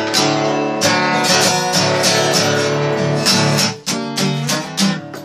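Acoustic guitar being strummed, chords struck in repeated strokes about twice a second, with a brief drop just before four seconds in.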